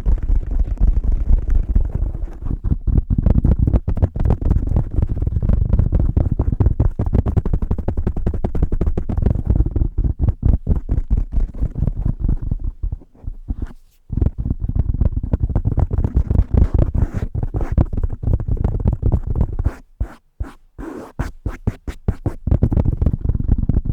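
Fingers tapping fast and hard on a microphone cover over a Blue Yeti microphone, close and muffled, many taps a second with low, thudding weight. The taps pause briefly twice, about a third of the way through and again a little past the middle.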